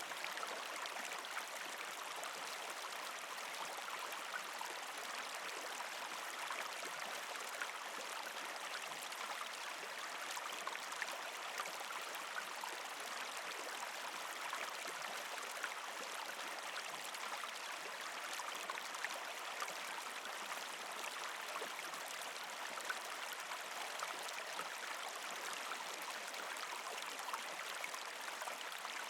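Water of a partially frozen creek flowing and trickling over rocks: a steady rush with many small splashes and gurgles.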